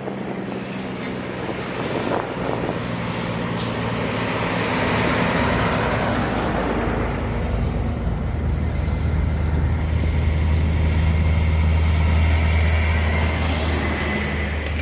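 Truck engines running with a steady deep drone. From about halfway a heavier, deeper engine sound swells and is loudest near the end, as a truck comes close.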